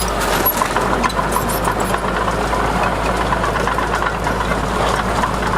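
Heavy diesel earthmoving engine running steadily, with no change in speed.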